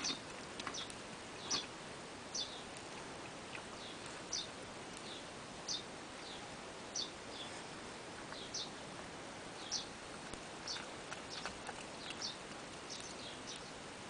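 Short, high-pitched squeaking calls, about one a second, sometimes two close together, over a steady background hiss.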